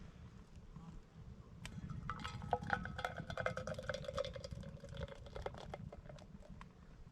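Firewood burning in a campfire: irregular crackles and sharp pops over a low rumble of flame. Through the middle a drawn-out tone slowly falls in pitch.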